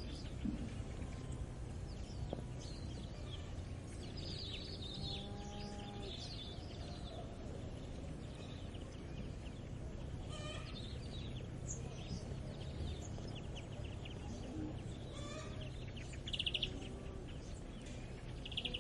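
Farmyard morning ambience: small birds chirping and calling at intervals over a steady low background rumble. A drawn-out lower animal call sounds from about four and a half to seven seconds in.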